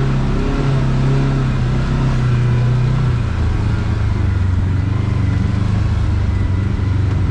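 Kawasaki KRX side-by-side's parallel-twin engine running under steady light throttle on a trail, its pitch easing down about three seconds in and picking up again near the end.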